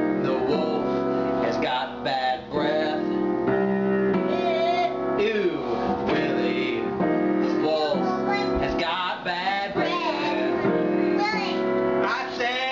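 Singing voices over a keyboard playing sustained chords, the voice lines wavering and sliding in pitch.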